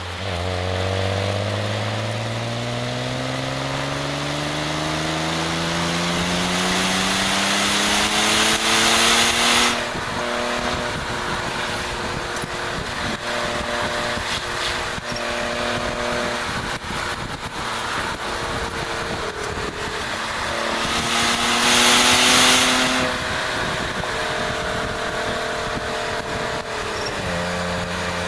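BMW E36 325is's 2.5-litre straight-six under hard track driving: the engine note climbs steadily for about ten seconds under acceleration, holds for a while, then climbs again and drops abruptly, as on a shift or lift. Wind rushes over the microphone at speed, loudest in two surges.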